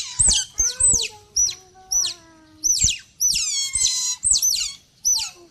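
Otters chirping: a rapid stream of short, high squeaks, several a second, with a few longer, lower whining calls among them. They are the calls of otters that expect to be fed.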